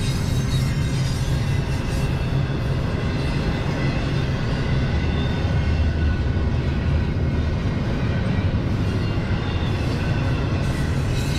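Double-stack intermodal freight train's well cars rolling past close by: a steady rumble of wheels on the rail, with no breaks in it.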